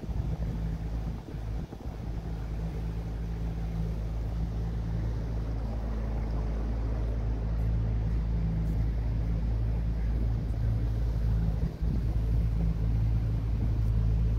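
A motorboat's engine running steadily with a low, even drone, growing slightly louder over the stretch.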